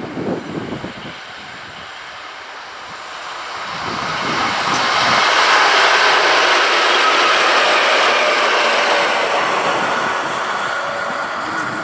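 A train passing on the track: the rolling noise of wheels on rail builds, peaks about five to eight seconds in, and fades away.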